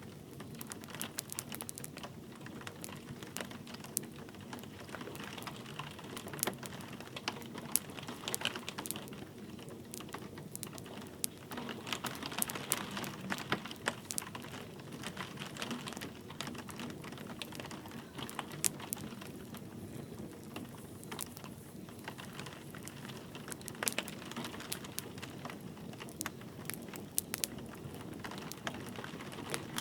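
Wood fire crackling and popping in a fireplace, with irregular sharp snaps over a steady hiss of light rain.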